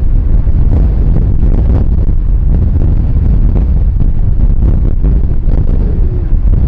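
Strong gusty wind buffeting the microphone: a loud, continuous low rumble that swells and dips irregularly.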